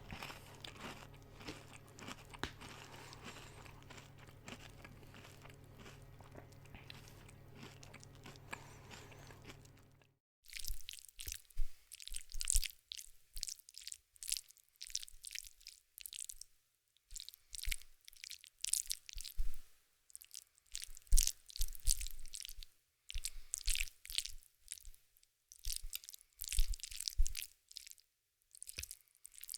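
Crunchy food being chewed. For the first ten seconds it is faint, over a low steady hum; then a different recording starts abruptly, with loud, separate crunching bites and chews coming irregularly.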